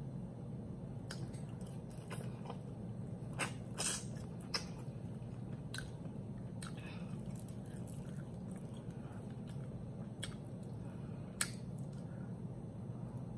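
Close-up mouth sounds of eating sauce-dipped chicken: chewing and biting, with scattered wet smacking clicks that are loudest about three to four seconds in and again near the end, over a steady low hum.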